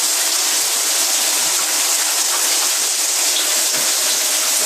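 Heavy rain falling: a steady, even rush of water that does not let up.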